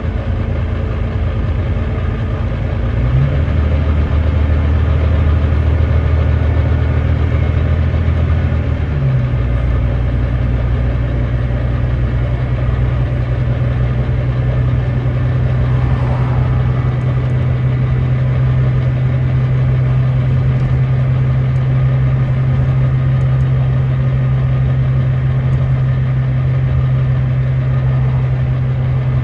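Volvo D9B diesel engine of a Volvo B9TL double-decker bus heard from on board, its revs jumping sharply about three seconds in as the ZF Ecolife six-speed automatic downshifts, jumping again about nine seconds in, then running steadily at the higher speed.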